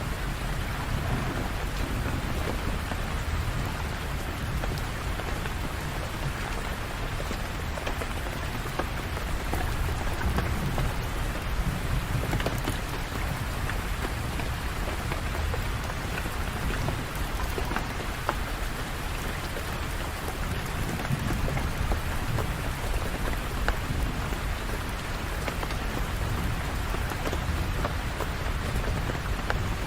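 Steady rain falling, a constant hiss with scattered drop ticks and a low rumble underneath that swells and eases slowly.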